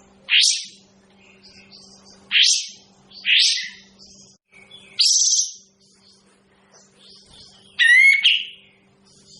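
Kapas tembak bird giving five short, loud, upward-sweeping calls a second or two apart, the last one a more warbled phrase, which the keeper finds unpleasant to listen to. A steady low hum runs underneath.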